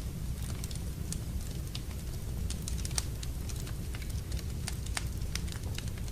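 Wood fire burning in a fireplace, with a low steady rumble and frequent irregular crackles and pops.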